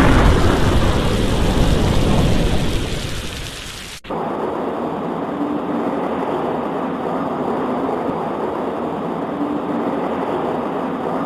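A deep roll of thunder fades away over the first few seconds. It is cut off abruptly about four seconds in by steady, even rain.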